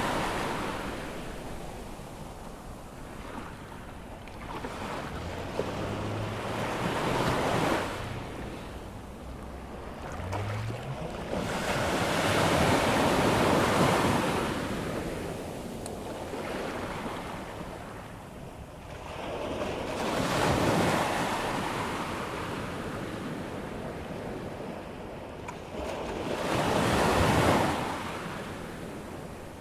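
Ocean surf breaking on a sandy beach as the tide comes in, the waves swelling and falling back about every six to seven seconds, with wind on the microphone.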